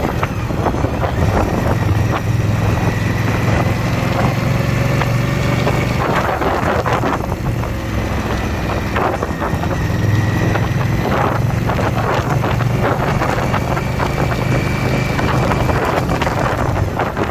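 Motorcycle V-twin engine running steadily under way, with wind rushing over the microphone.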